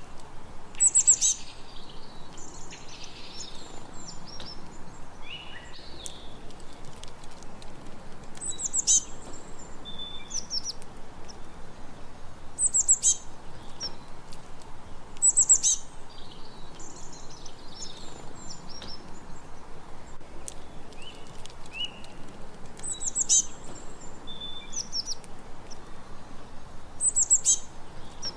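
Several songbirds singing and chirping, with a loud high trill phrase recurring every few seconds over a steady, fast pulsing of softer calls.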